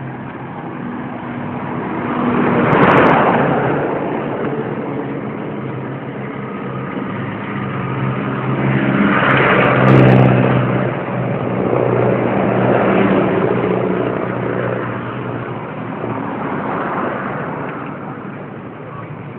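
Motor vehicles passing by on a road one after another, each swelling up and fading, with the loudest pass about halfway through.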